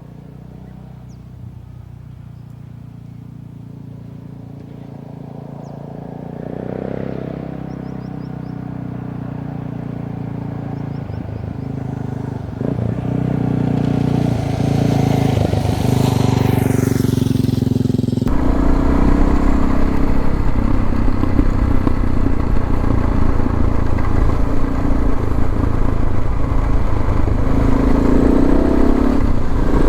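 Suzuki DR650's single-cylinder four-stroke engine running under way, growing louder over the first half. Wind buffeting on the microphone joins in a little over halfway through.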